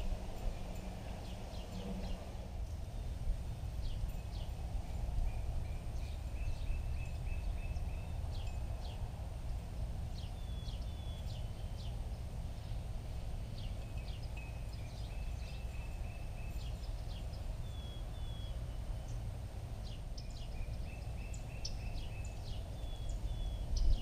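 Small birds chirping and giving short trills of quickly repeated notes, faint, over a steady low outdoor rumble.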